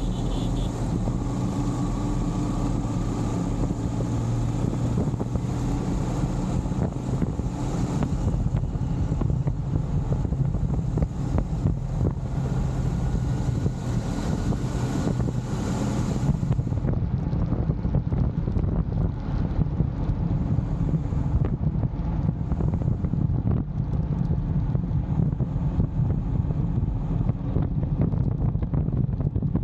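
Motorcycle ride: a steady engine hum under heavy wind rumble on the action camera's microphone, with street traffic noise mixed in.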